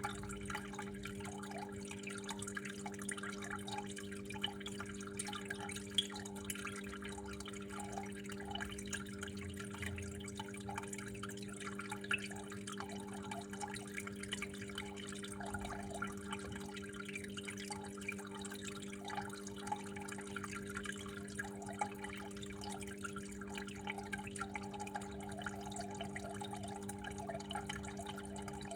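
Water flowing and trickling with an irregular patter of drips, over a steady low hum.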